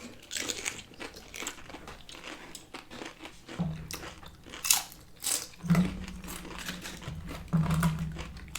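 Close-up mouth sounds of biting and chewing crisp fried tortilla, with repeated sharp crunches throughout.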